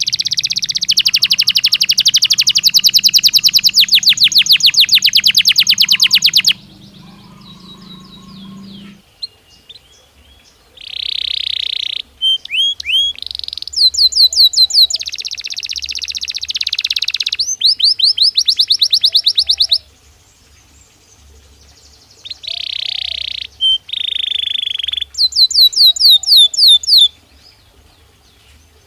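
Belgian canary singing: long, fast trills of repeated rising notes alternate with shorter warbled phrases, broken by pauses of a second or two.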